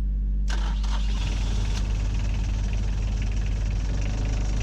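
Catamaran's inboard diesel engine idling steadily, its alternator belt just tightened, though still a little slack. A rushing noise joins about half a second in.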